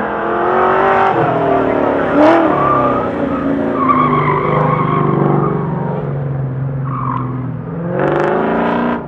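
1966 Chevelle's engine revving up and down hard as it slaloms through an autocross course, with tyres squealing through the turns. A brief sharp crack about two seconds in, and a hard rising acceleration near the end that cuts off suddenly.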